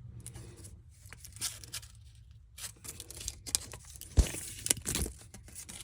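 Handling sounds from removing the main bearing caps off an ISX diesel block to read the Plastigauge on the crankshaft journals: scattered clicks and scrapes, with a sharp knock about four seconds in and another shortly after.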